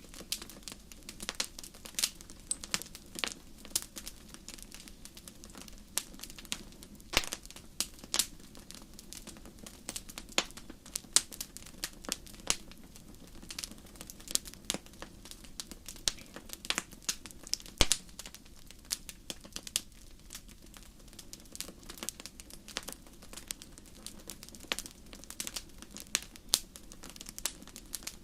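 Wood fire in a fireplace crackling and popping: many irregular sharp snaps, some louder than others, over a low steady rumble of the flames.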